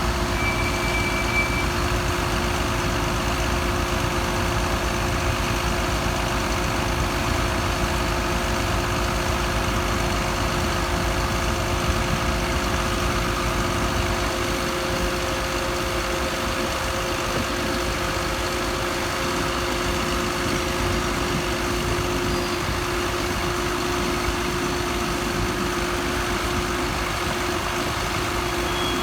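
An engine idling steadily, with an even hum that does not change.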